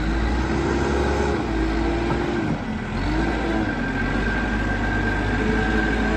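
2003 JCB 214 backhoe loader's diesel engine running hard under load as the machine pulls in four-wheel drive. Its pitch dips briefly about two and a half seconds in and climbs back, with a steady whine above it from about three seconds in.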